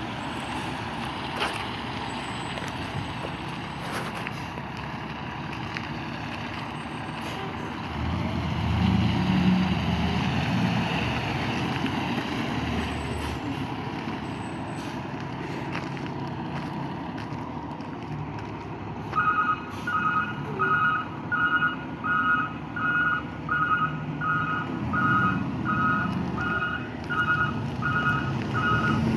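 Fire truck engine running, growing louder about a third of the way in. Then, for the second half, its reversing alarm beeps steadily at about one and a half beeps a second: the truck is backing up.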